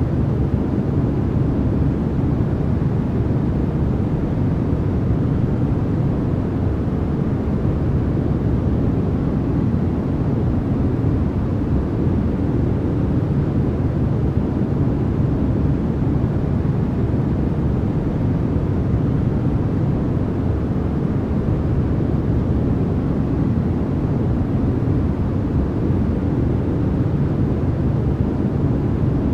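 Steady, unbroken generated noise of a sleep-noise track, sold as white noise. It is an even, deep hiss with most of its weight low down, and it does not change.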